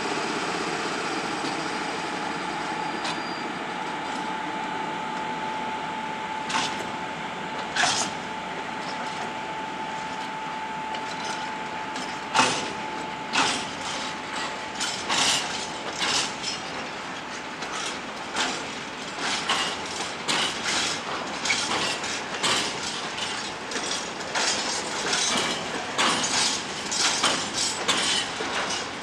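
A PKP Cargo ET22 six-axle electric locomotive starting a heavy freight train: a steady running noise with a held tone for the first twelve seconds or so. From about twelve seconds in, the open freight wagons rolling past add a series of sharp knocks and clanks that come more and more often toward the end as the train gathers speed.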